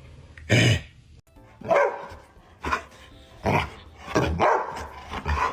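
Small dog barking about six times, roughly once a second.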